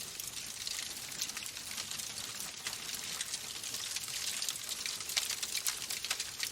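Wood fire burning in a fireplace, crackling steadily with a dense run of small sharp pops over a soft hiss.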